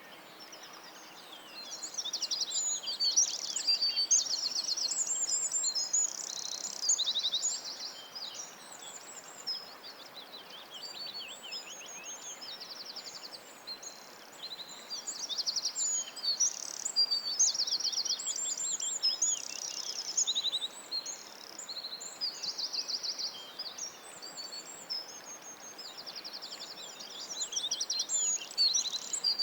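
Several songbirds singing together: overlapping high chirps, whistles and fast rattling trills, busiest in three spells with quieter gaps between, over a faint steady hiss.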